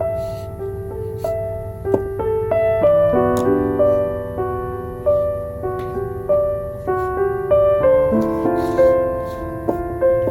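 Soft, slow solo piano music, single notes and chords sounding and dying away, with a faint low hiss under it and a few light crackles of a wood-wick candle.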